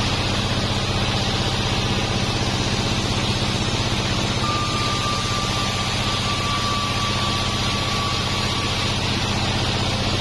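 Sawmill bandsaw, a 36-inch Pandan machine, running steadily with a deep motor hum and a hiss. A faint high whine comes in about four seconds in and drops out a few seconds later.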